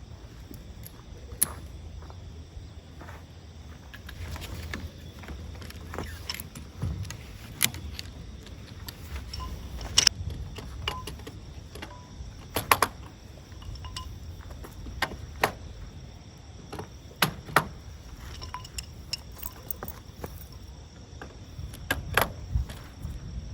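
Scattered clicks, clinks and knocks of camping gear being handled, over a faint steady insect drone and a low rumble.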